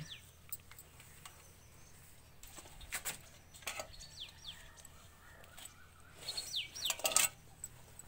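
Small birds chirping in short, falling notes at intervals, with a few sharp clicks and rustles. The clicks are loudest about three seconds in and near the end.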